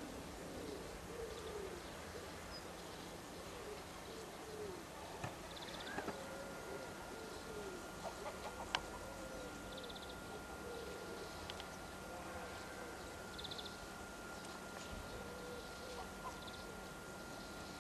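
Quiet outdoor ambience with a bird cooing off and on in low, wavering calls.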